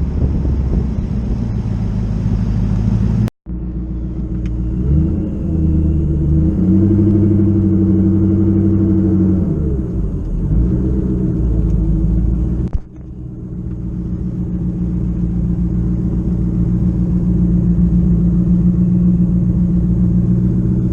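Twin-turbocharged Ford Coyote V8 running at part throttle. Its pitch steps up about five seconds in, holds for several seconds and falls back, then settles into a steady drone. The sound cuts off abruptly twice.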